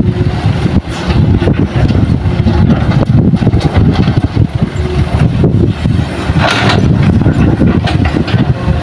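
Heavy earthmoving machinery's diesel engines running loudly, a dense low rumble. A brief harsher burst of noise comes about six and a half seconds in.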